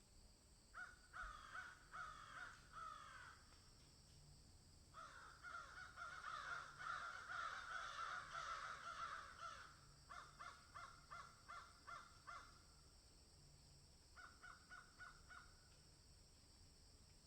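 Birds calling in bouts of quick repeated notes, one long busy stretch in the middle and shorter runs of clipped calls after it, over a faint steady high hiss.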